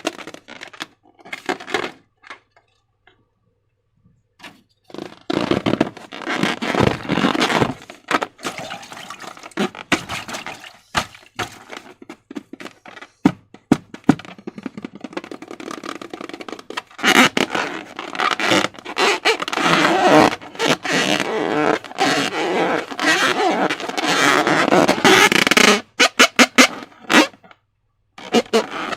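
Slime and balloons handled close to the microphone: bursts of dense crackling and squishing clicks, with two short pauses.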